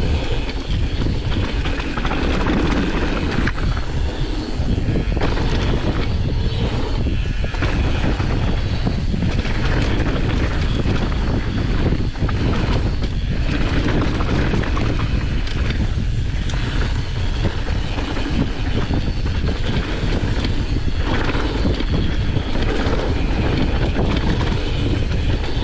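Downhill mountain bike riding a dirt trail: a steady rush of wind on the microphone with tyre noise and frequent short rattles from the bike over bumps.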